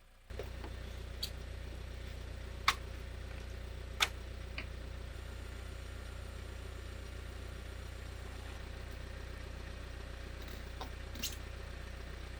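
An engine idling with a steady low hum, with a few sharp clicks over it.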